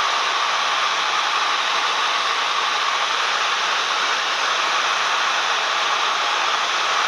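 Steady cabin noise of a Cessna 172M light aircraft in flight: engine and airflow blended into an even, hiss-like rush with no deep bass.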